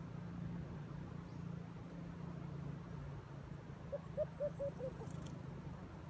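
A bird calling: a quick run of five short, low notes about four seconds in, over a steady low hum.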